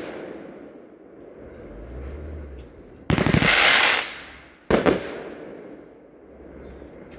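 Consumer firework cake firing, with two loud shots: a longer blast about three seconds in and a sharper bang about a second and a half later. Each fades away after it.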